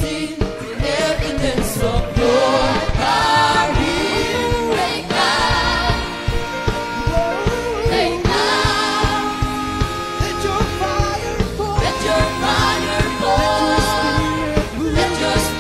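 Group of voices singing a Christian worship song with instrumental backing and a steady beat.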